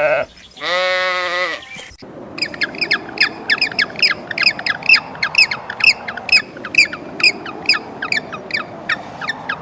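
An animal bleats at the start. From about two seconds in, a bird calls over and over in short, sharp, falling notes, about three a second, over a low background hiss.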